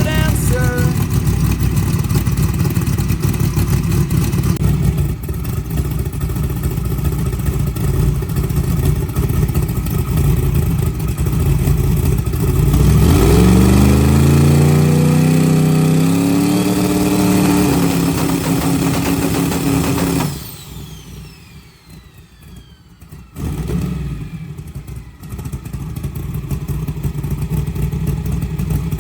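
Race engine running steadily, then revving hard with a steeply rising pitch for about four seconds, holding high, and cutting off suddenly about 20 seconds in. After a few quieter seconds with fading whines, engine noise picks up again near the end.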